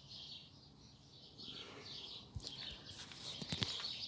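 Small birds chirping steadily, a quick run of short high repeated notes. In the second half a few sharp clicks and rustles sound over them.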